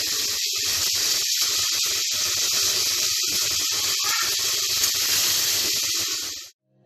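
Water running steadily from a tap into a sink, cutting off abruptly near the end.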